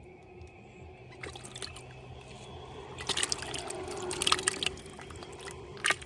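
Water splashing and dripping in irregular bursts, loudest between about three and five seconds in, with one sharp splash near the end.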